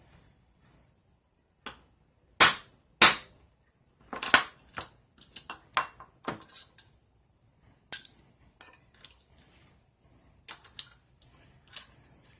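Sharp clicks and light metallic taps from small tools and metal parts being handled on a hard surface: two loud snaps about half a second apart, then a scatter of lighter clicks and taps.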